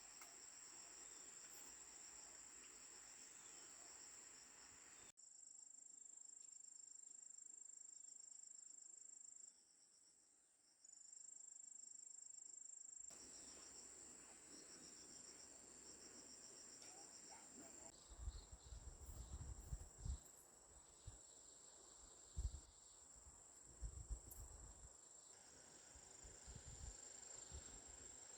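Insects trilling: a steady high-pitched trill with a faster pulsing chirp just beneath it. The background drops abruptly about five seconds in and fills back in around thirteen seconds, and a few soft low thumps come in the second half.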